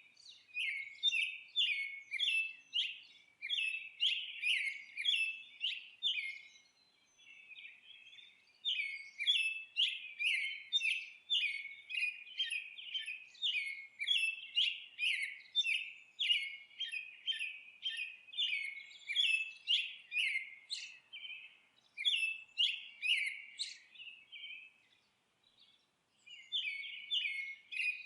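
Small songbirds chirping and twittering in quick, continuous runs of short high notes, several a second, broken by brief pauses about a quarter of the way in and again near the end.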